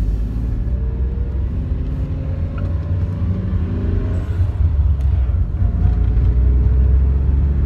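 Daihatsu Charade running on petrol vapour from a homemade fuel bubbler, heard from inside the cabin while driving slowly: a steady low engine and road rumble, with the engine note rising gently a couple of times and getting a little louder in the second half.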